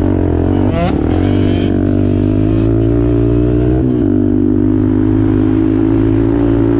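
Single-cylinder off-road engine running loud under steady throttle, its pitch dipping briefly about four seconds in and then holding steady again.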